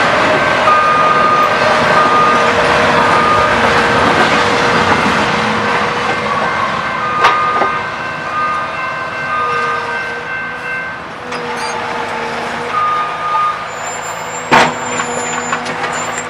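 A passing train rumbling past, its noise easing after about six seconds, with a steady tone throughout and a short high beep repeating less than once a second.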